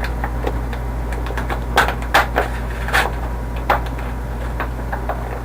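A handful of sharp, irregular clicks and taps from hard objects being handled, over a steady low hum.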